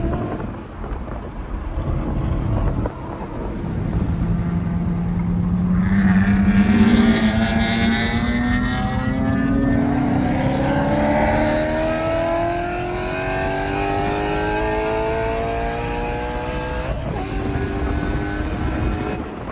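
Mercedes C63 AMG's 6.2-litre V8, with its secondary cats and resonators deleted, pulling hard on track. After a quieter start, the engine note climbs steadily in pitch for many seconds, then drops suddenly near the end.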